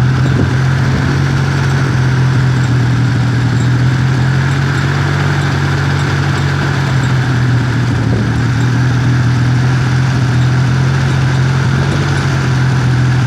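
1977 Ford 2.0-litre Cologne V6 engine running steadily at idle, an even hum with no revving.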